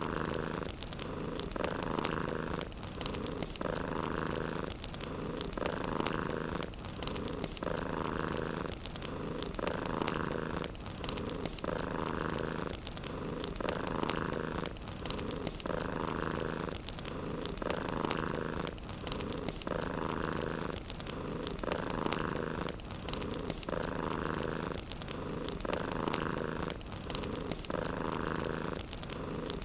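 Domestic cat purring close up, in a steady in-and-out rhythm of about one breath every two seconds, with the fine crackle of a wood fire throughout.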